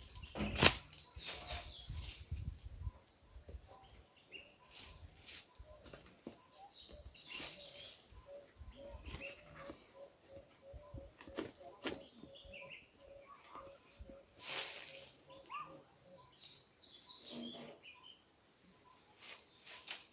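Outdoor insect and bird ambience: a steady high insect trill runs throughout, with scattered bird chirps. From about seven seconds in, a bird repeats a low note about twice a second for some eight seconds. Low rumble and a few knocks come in the first few seconds.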